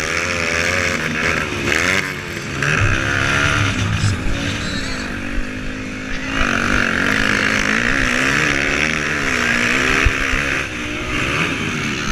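Motocross bike engines revving at race pace, their pitch rising and falling again and again as the throttle opens and closes.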